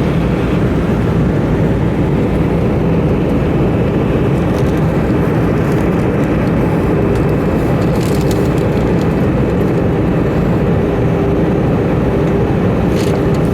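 Steady cabin noise of an Airbus A320 in flight: a low drone of engines and airflow with a steady hum, and a few light clicks about two-thirds through and near the end.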